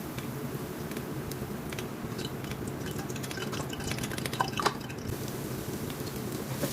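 Kitchen prep sounds: light clicks and clinks with liquid sounds over a steady low hum, and two sharper knocks about four and a half seconds in.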